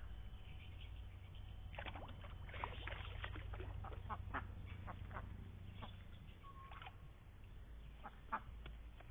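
Indian Runner ducks quacking: many short, overlapping calls, busiest in the first half, over a steady low rumble.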